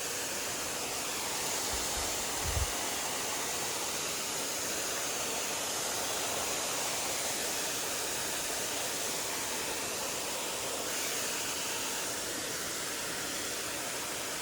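Mountain stream water rushing over rocks, a steady hiss, with a couple of brief low bumps about two seconds in.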